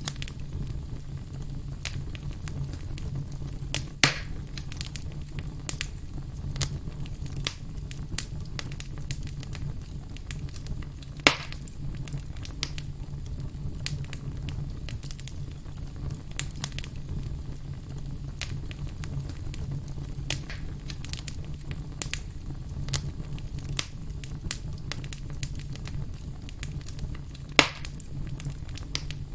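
Firewood burning with steady crackling over a low rumble of flame. Three much louder sharp pops stand out, about four seconds in, about eleven seconds in, and near the end.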